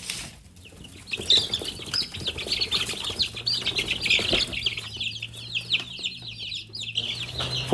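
A flock of young chickens peeping, many short high calls overlapping in a dense, continuous chorus that starts about a second in.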